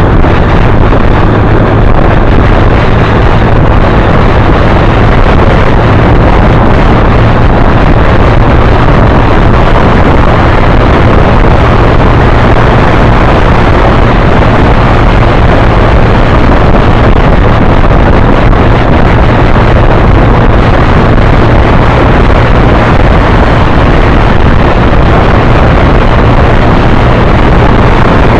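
Wind rushing over the microphone of a camera on a moving motorbike, with the motorbike's engine running steadily beneath it. Loud and unchanging throughout.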